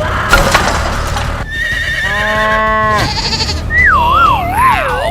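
Cartoon sound effects: a noisy crash about a second long, then a held buzzy tone for about a second, then a wobbling whistle that slides down in pitch.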